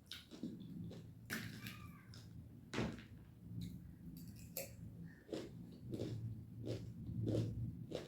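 Close-miked chewing of sadeko chauchau, a spiced instant-noodle salad: a string of wet mouth smacks and crunches, one every half second or so.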